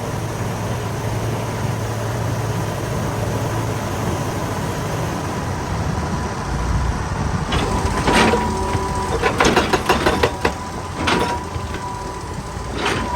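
Excavator's diesel engine running steadily. From about halfway on come several irregular sharp scrapes and knocks of metal on rock, with a squealing screech under them.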